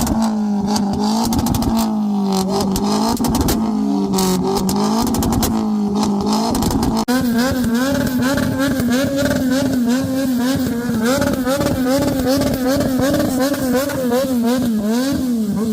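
A car engine is revved hard, its pitch swinging up and down over and over, with a rapid run of exhaust pops and bangs crackling through it. About halfway through the revs change abruptly and hold higher with quicker blips, then fall away near the end.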